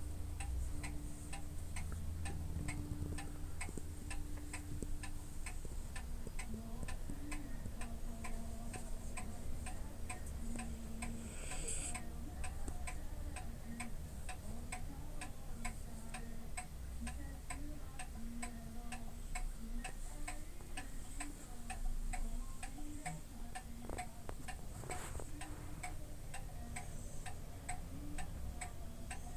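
Steady, evenly spaced ticking, like a clock, over a low hum.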